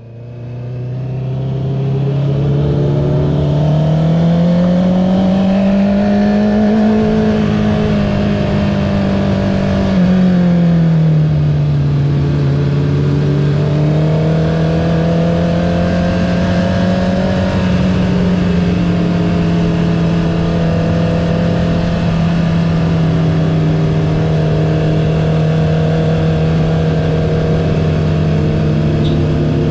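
Honda CB650R inline-four through an Akrapovic titanium full-system exhaust with the dB killer removed, under way on the road. The engine note fades in, climbs over a few seconds as the bike accelerates, drops back around ten seconds in, then holds steady at cruising revs.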